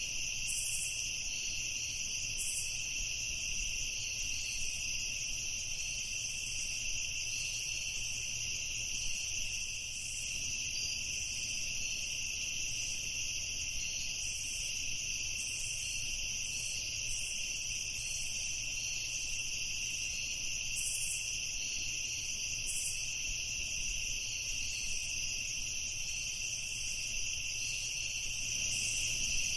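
Night chorus of crickets trilling steadily without a break, with short higher chirps scattered over it.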